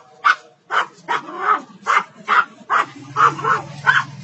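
A dog barking rapidly and repeatedly, about two to three barks a second.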